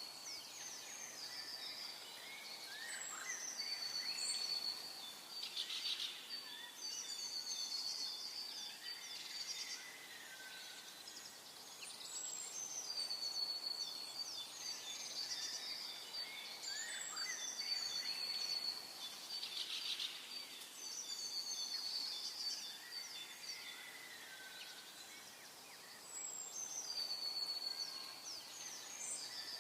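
Songbirds singing, with repeated high whistled and trilled phrases, over faint outdoor background noise.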